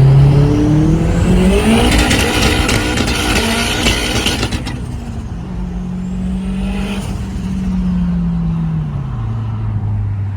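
Turbocharged Honda K24A3 four-cylinder with a Holset HX40 truck turbo revving: engine pitch climbs with a rising turbo whistle into a rough, crackling stretch at high revs that cuts off suddenly about four and a half seconds in. It then holds a second rev while the turbo whine rises and falls again, and the engine drops back to idle near the end.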